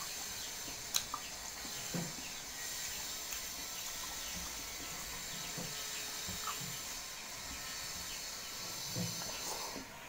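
Someone eating rice and curry: quiet chewing and mouth sounds, with small scattered clicks and a few soft thumps over a steady hiss that drops away near the end.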